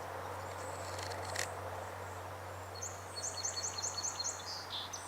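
A bird singing a quick run of about eight high, rising notes, heard over a low steady background hum.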